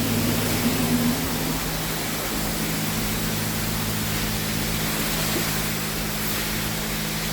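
Self-serve car wash wand spraying water onto a car in a steady hiss, with a steady low hum underneath.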